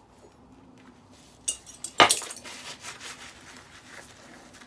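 Metal clinking as the stainless steel top plate comes off a machined aluminium decking light: a few light clicks, then one sharp, loud clink about two seconds in, followed by softer taps.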